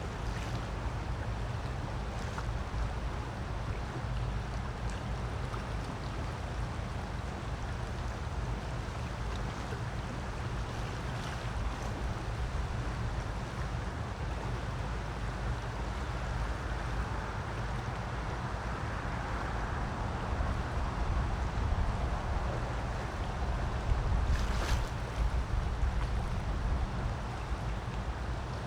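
Creek water rushing steadily over rocks, an even watery hiss with a low rumble underneath. A brief louder burst of noise comes about three quarters of the way through.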